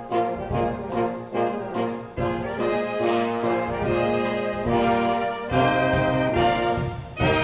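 Street brass band playing a lively tune, with trombone and trumpet over a steady beat of about two strokes a second.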